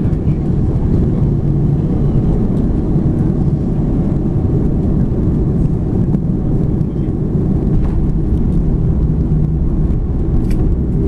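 Steady low rumble of cabin noise inside an Airbus A330-200 airliner during landing, with a few faint clicks.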